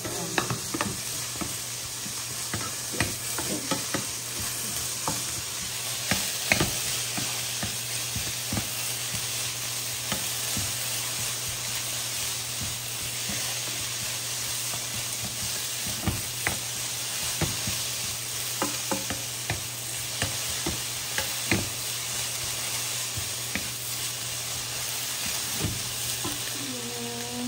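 Julienned potato strips frying in oil in a pan: a steady sizzle, with a wooden spatula stirring them and knocking against the pan now and then.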